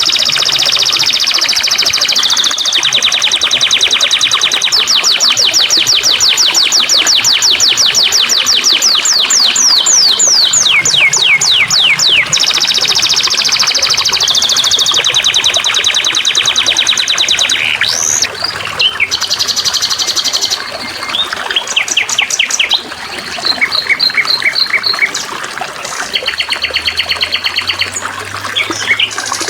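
Songbirds singing long, fast trills of rapid downward-sweeping notes, several a second, changing to shorter chopped trills and whistles in the last third, over a steady trickle of water.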